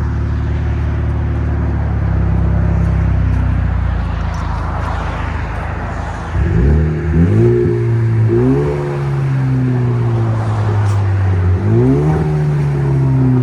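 Straight-piped 2013 Cadillac ATS 2.0-litre turbo four-cylinder, still with its catalytic converters, running on a Y-pipe into dual open pipes. It runs steadily for about six seconds, then revs up in several quick rises in engine pitch, each falling back more slowly, with a last one near the end.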